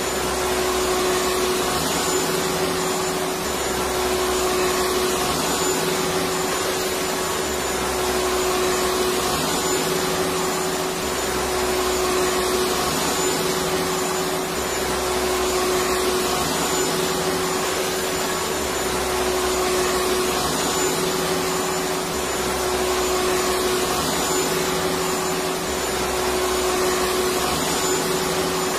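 Electric vacuum cleaner running steadily: an even, loud rushing noise with a steady motor hum, its low end shifting slightly every two to three seconds.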